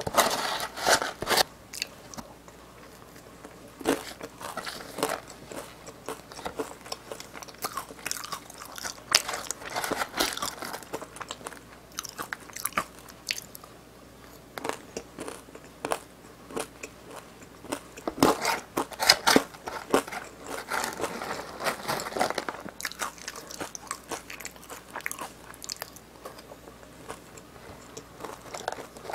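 Close-up crunching and chewing of crisp seasoned fried-chicken crumbs eaten by the spoonful: irregular small crackles and crunches, some sharper and louder than others.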